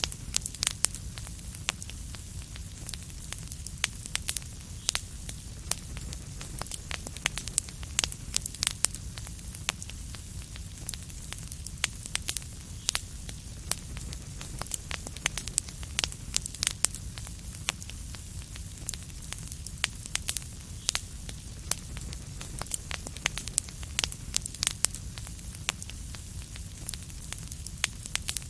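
Wood fire crackling in a fireplace: frequent sharp irregular pops and snaps over a steady low rumble of burning.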